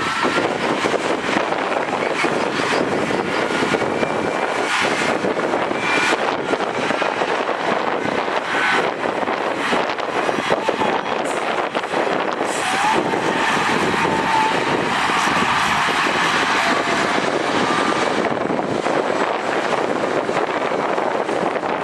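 Heavy earthmoving machinery running under load: a steady engine din with a faint whine and a few short knocks or clanks.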